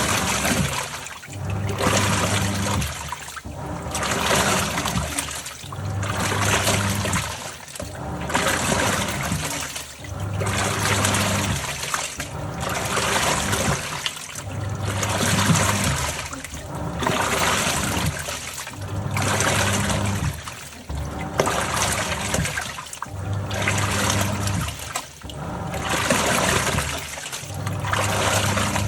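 Top-loading washing machine agitating a load: water sloshing and churning in bursts about every two seconds, with the motor humming in each burst as the pulsator turns one way and then reverses.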